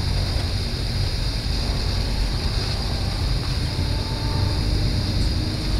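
Double-stack intermodal container train rolling past with a steady low rumble.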